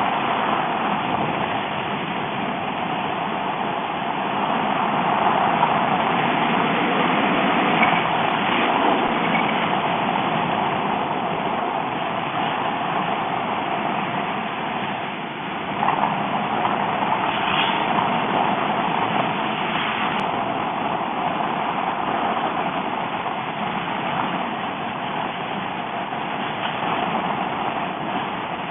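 Steady ride noise from a Kawasaki Ninja H2 motorcycle being ridden at an even pace: engine and wind with no revving.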